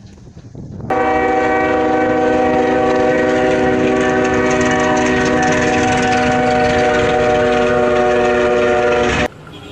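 Train horn blowing one long, steady blast of several notes sounded together, starting abruptly about a second in and cutting off suddenly near the end.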